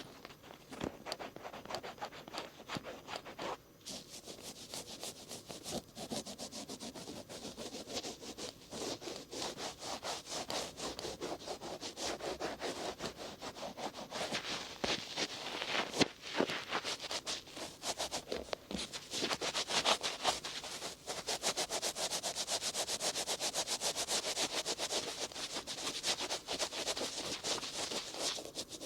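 Cotton swabs rubbing and scratching over the outer ear in quick, repeated strokes, a dense soft scratching that eases for a moment about four seconds in and grows busier in the second half, with one sharper tick midway.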